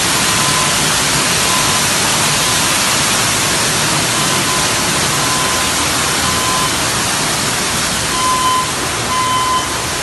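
Loud, steady rush of gushing water, with a faint high tone coming and going in the second half.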